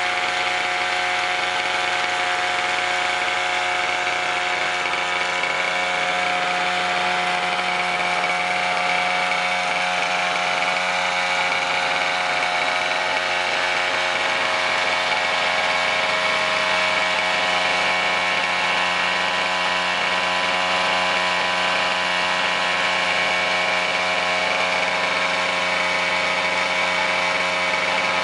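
1965 Sachs 47cc single-cylinder two-stroke stationary engine running steadily without stopping, its pitch wavering slightly. The owner says this engine isn't running properly.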